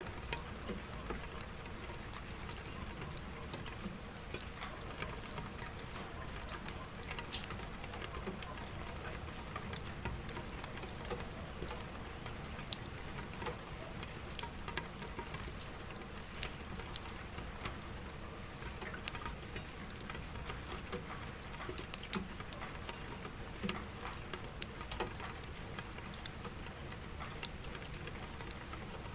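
Steady rainfall, a constant patter with many single drops ticking sharply and irregularly over it.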